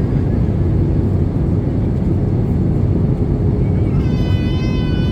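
Steady cabin noise of an Airbus A320-214 in flight, the low, even rumble of its CFM56 engines and the airflow heard from inside the passenger cabin. A voice sounds briefly about four seconds in.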